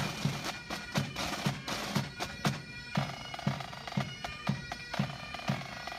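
Military pipe band playing: bagpipes sounding steady held notes over a bass drum beating about twice a second.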